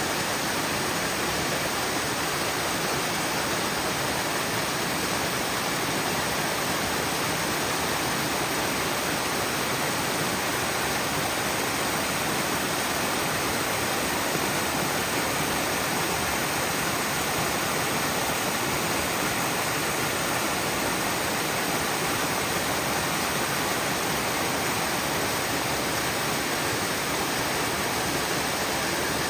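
Stream water rushing and flowing steadily in an even, unbroken wash of sound.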